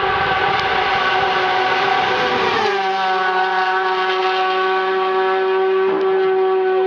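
Hill-climb race car engine held at high revs, a loud steady tone whose pitch drops about two and a half seconds in and then holds, as the car passes at speed.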